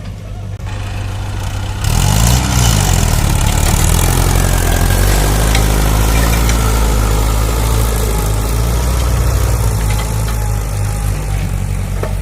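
Heavy diesel engine running steadily. About two seconds in it suddenly gets louder, its pitch briefly rising and falling, and then it holds a steady, loud run.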